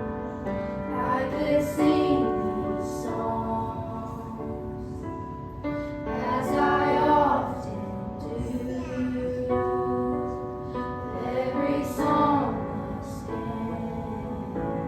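Youth choir singing with piano accompaniment: held chords underneath, with sung phrases swelling up about every five seconds.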